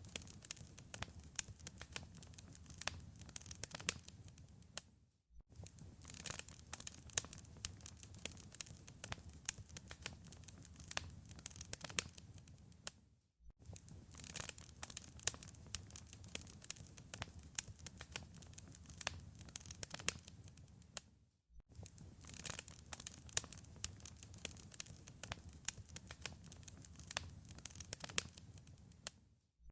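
Wood fire in a fireplace crackling and popping steadily, dense small snaps over a low hiss. The sound cuts out for a fraction of a second about every eight seconds, where the recording loops.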